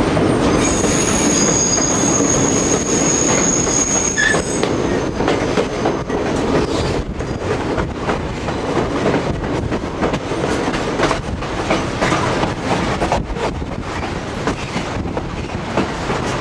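Narrow-gauge White Pass & Yukon Route passenger train running on the rails, heard from aboard a car: a steady rumble with wheels clacking over the rail joints. A high, steady wheel squeal sounds for the first few seconds and stops about four and a half seconds in.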